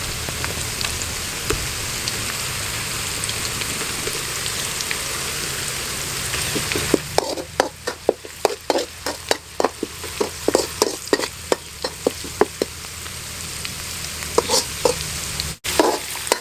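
Food sizzling in hot oil in a pan. About seven seconds in, a metal spoon starts stirring and scraping the pan, about three ringing strokes a second for several seconds, with a few more near the end. The cook wants the food fried until it turns golden.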